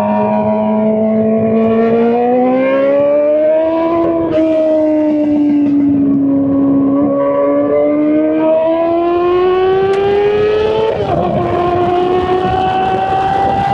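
Straight-piped Honda CBR600 inline-four engine running at high revs under way. Its note climbs and eases in long slow sweeps, with a brief break about eleven seconds in before it settles on a steady higher pitch.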